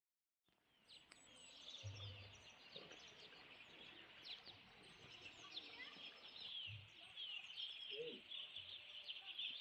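Many small birds chirping and twittering at once, a faint continuous chorus of quick high notes that starts about half a second in.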